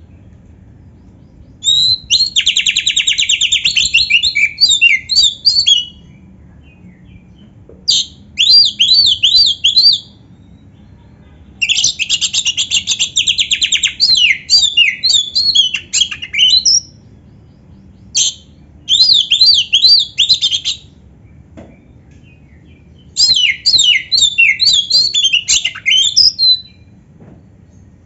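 Oriental magpie-robin (kacer) singing in five loud phrases with short pauses between them, each opening with a fast buzzing trill and running into quick up-and-down whistled notes, with canary-style phrases worked into its song.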